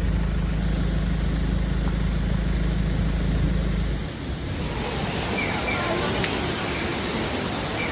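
Torrential rain and rushing floodwater. A loud low rumble runs under the hiss for about four seconds, then stops abruptly, leaving a steady heavy hiss of rain with faint voices.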